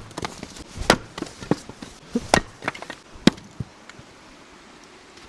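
Wood being chopped, probably kindling or firewood: five or six sharp strikes, irregularly about a second apart, stopping after about three and a half seconds.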